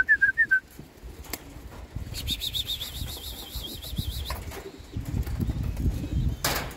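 Racing pigeons' wings flapping as they land at the loft. A short run of electronic beeps from the race clocking system registering a bird comes right at the start, and a rapidly warbling high tone sounds from about two to four seconds in.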